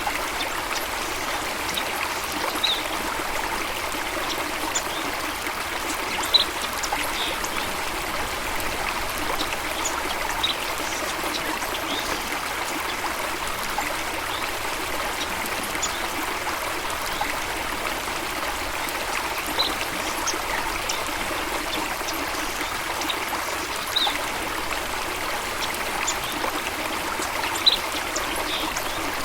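Running water flowing steadily, with a few brief high bird chirps now and then.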